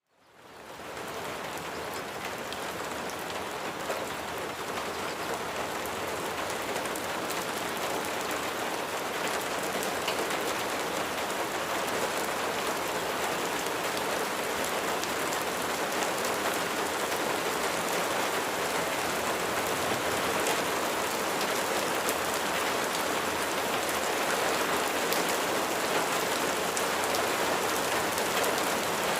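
Steady, heavy rain falling, a dense even patter of drops. It fades in over the first second and then holds level.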